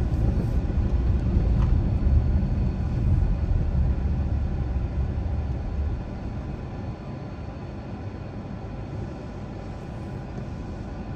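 A car driving, its road and engine noise a steady low rumble that drops noticeably about six seconds in.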